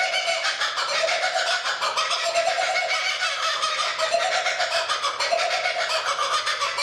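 Laughing kookaburra's territorial laughing call: a continuous run of rapid cackling notes that rise and fall in waves about once a second.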